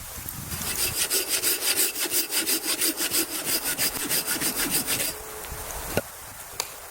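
Hand saw cutting through wood in quick, even back-and-forth strokes. The sawing stops after about four and a half seconds, and a single knock follows about a second later.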